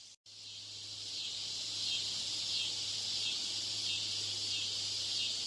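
Background noise of chirping insects: a dense, pulsing high-pitched chorus over a steady low electrical hum. It cuts out briefly right at the start, then swells back in over the first couple of seconds and holds.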